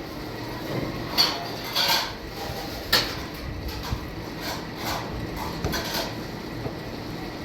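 Irregular knocks and clatter of hard objects being handled, about seven sharp strikes spread unevenly, over a steady low background.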